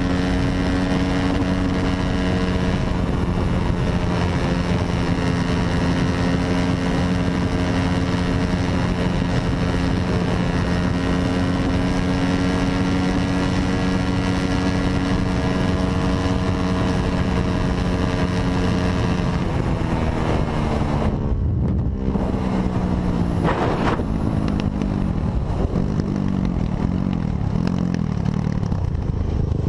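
A motor vehicle engine running at a steady high pitch, which falls and then rises and falls unevenly about twenty seconds in, as the revs change.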